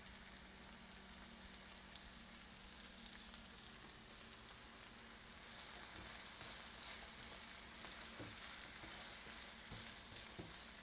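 Faint sizzle of boiled jackfruit seeds frying in oil in a nonstick skillet, growing a little louder about halfway through. In the second half there are a few light taps as a utensil stirs the seeds.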